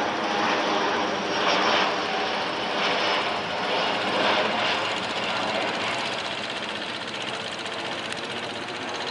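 Jet airliner's turbofan engines at takeoff power, loud and steady with a whine of tones over the noise, slowly fading over the last few seconds.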